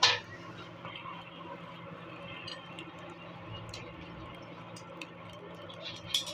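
A sharp metallic clink right at the start, ringing briefly, and a smaller one near the end, over a steady low hum with scattered faint taps.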